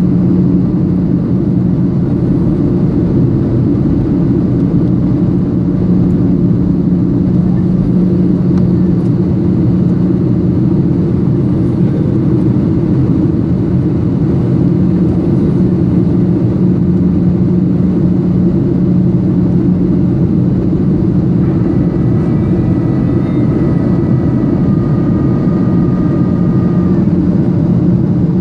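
Boeing 737-800 cabin noise in flight: a steady drone from the CFM56 engines mixed with the rush of air past the fuselage. A faint high whine joins it for a few seconds about three-quarters of the way through.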